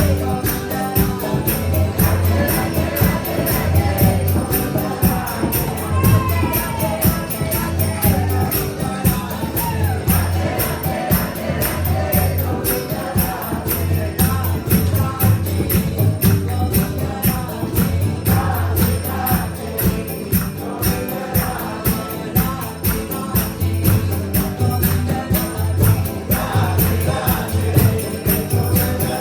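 Upbeat devotional kirtan chant: voices singing over a steady, fast percussion beat with jingling metallic bells.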